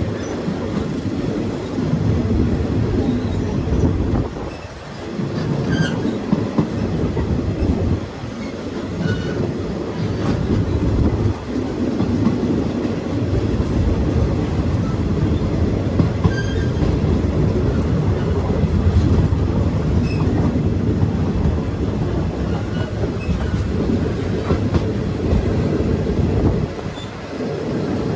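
Passenger train heard from on board, running along the track: a steady low rumble with wheel clatter on the rails. It drops briefly twice, about four seconds in and near the end.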